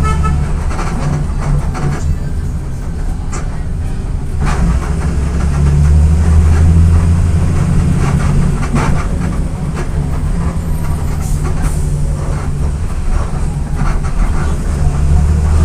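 Diesel engine of a Volksbus 17.230 EOD bus, fitted with a five-speed gearbox, running steadily with a low drone that grows louder about five seconds in. Scattered rattles and clicks from the body are heard alongside it.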